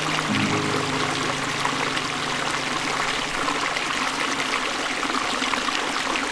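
Running water, a steady rushing like a stream.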